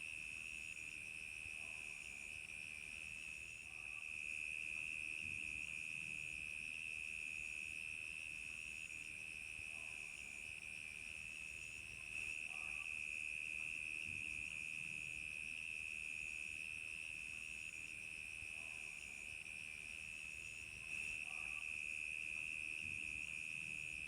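Crickets chirping at night: a steady, unbroken high trill with a higher chirp repeating about every second and a half.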